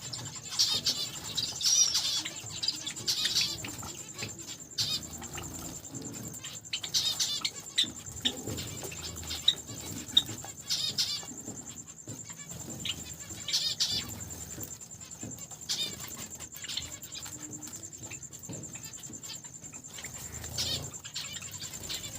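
A mixed flock of small cage finches (zebra finches, Java sparrows, Bengalese and Gouldian finches) chirping in short bursts, with wing flutters and light clicks of birds moving about. A faint steady high whine runs underneath.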